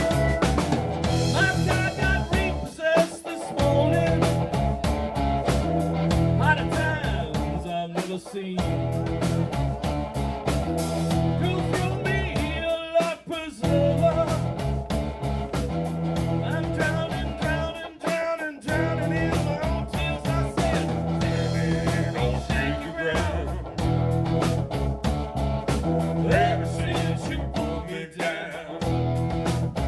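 Live blues-rock band playing an instrumental passage, with guitar over a steady bass and drum beat.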